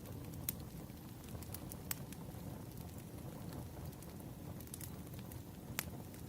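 Burning firewood: a low, steady rumble of flames with scattered sharp crackles and pops. The loudest pops come about half a second in and near the end.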